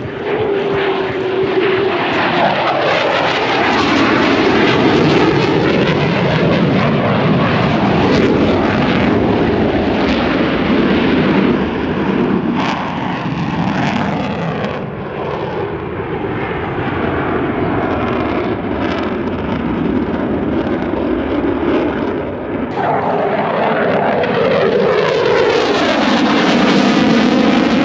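Loud aircraft engine noise as a plane flies past overhead, swelling and sweeping in pitch as it passes, with a second loud pass near the end.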